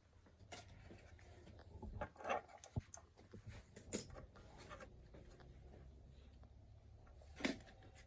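A few light, irregular clicks, knocks and scrapes of small tools or engine parts being handled on a workbench, over a faint low hum.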